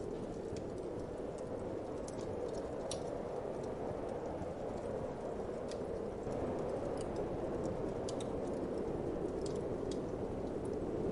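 Wood fire crackling, with irregular small pops and snaps, over a steady rushing winter wind that gets slightly louder about six seconds in.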